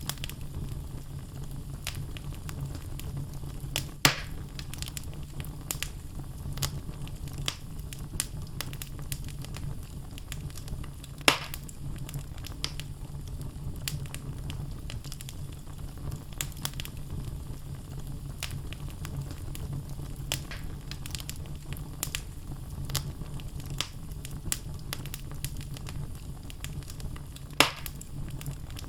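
Wood logs burning in a fireplace with a steady low rumble of flame and constant scattered crackling, with three louder sharp pops about 4, 11 and 27 seconds in.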